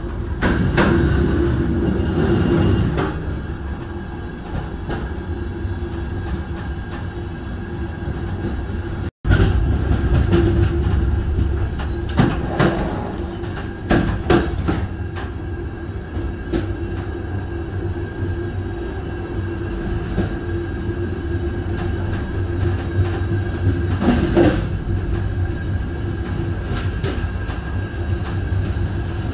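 Passenger train running along the track: a steady low rumble with a held hum over it and scattered clicks and knocks from the wheels. The sound breaks off for an instant about nine seconds in, then goes on.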